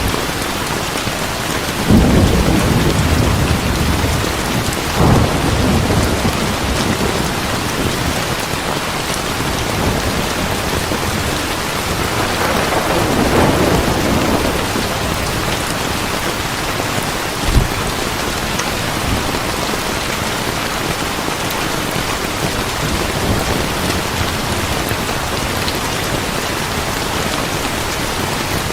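Heavy rain pouring steadily in a thunderstorm. Thunder breaks in about two seconds in and rolls on for a couple of seconds. A shorter clap comes near five seconds, a longer rumble about twelve seconds in, and a brief sharp crack a few seconds after that.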